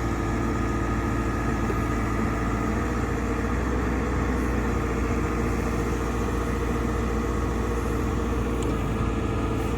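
2011 JCB 3CX backhoe's diesel engine running at a steady speed.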